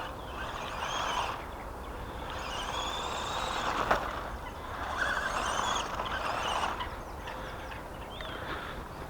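Brushed 370 electric motor of a 1/18 RC short course truck whining up and down in about four bursts of throttle, with a rushing noise under each burst. There is a sharp click about four seconds in.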